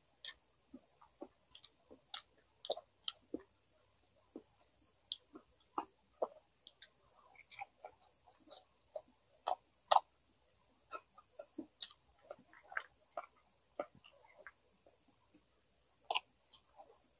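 Close-up eating sounds: chewing and lip smacks making a string of irregular short, wet clicks, a few sharper than the rest, the sharpest about ten seconds in.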